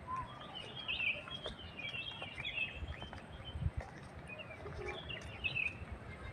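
Small birds chirping and twittering, many short calls busiest in the first three seconds and again briefly near the end, over a low rumble.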